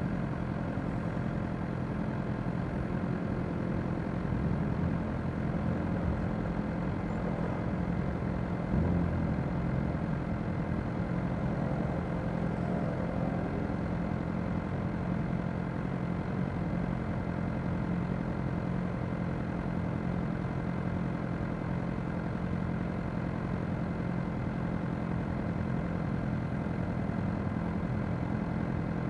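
Motorcycle engines idling steadily in a stopped queue of bikes, with the close inline-four of a Suzuki GSX-R600 among them. There is a brief louder moment about nine seconds in.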